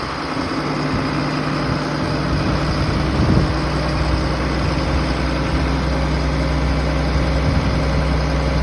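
Heavy diesel engine of the tractor pulling a bank-out grain wagon, running steadily at a constant speed.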